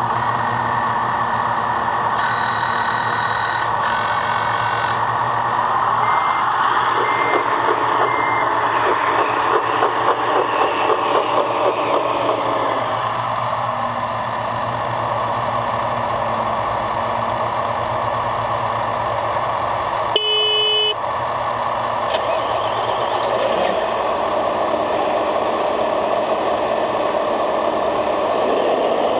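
Electric motors, gearboxes and hydraulic pumps of 1/14-scale RC construction machines whining steadily as they work, with three short reversing-style beeps from a model's sound module about a quarter of the way in and a brief loud horn-like tone about two-thirds through.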